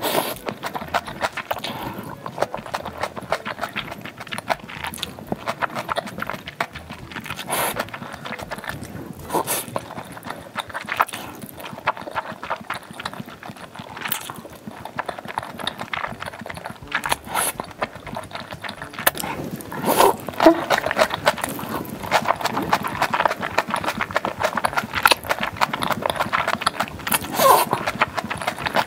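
Close-miked mouth eating sounds: chewing with dense, irregular wet clicks and smacks from big mouthfuls of food.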